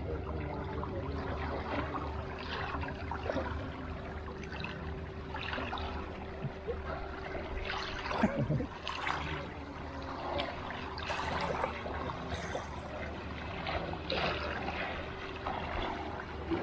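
Pool water splashing and lapping around a swimmer, in irregular splashes with a stronger one about eight seconds in, over a steady low hum.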